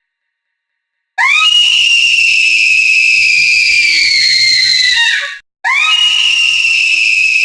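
A whistle sound effect: a high tone that scoops up and then slides slowly down in pitch for about four seconds. It dies away and starts over the same way near the end.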